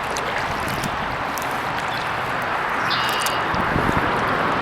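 Steady rush of highway traffic from Interstate 84, with small water drips and clicks throughout and a brief high chirp about three seconds in.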